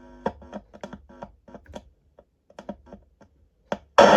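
DigiTek DBS200 Bluetooth speaker crackling and popping in short, irregular clicks, some with a brief buzz, as tweezers short across the pins of its volume potentiometer. A loud burst of radio static comes through near the end. The signal passes once the volume pot is bypassed, the sign of a faulty volume pot.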